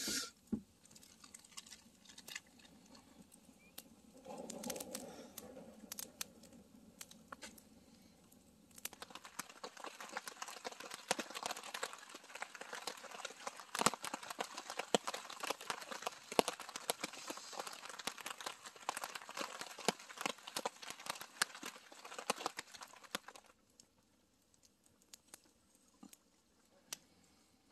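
Campfire crackling with scattered pops, then a dense patter of rain from about nine seconds in that lasts some fourteen seconds and cuts off abruptly, leaving only a few faint ticks.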